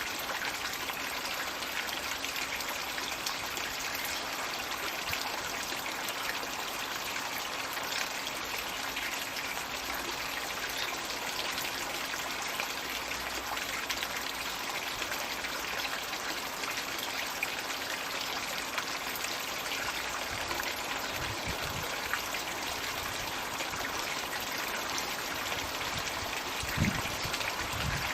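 Floating magic-bucket pond water feature running: a steady stream of water pouring and splashing into the pond. A few soft low thumps come near the end.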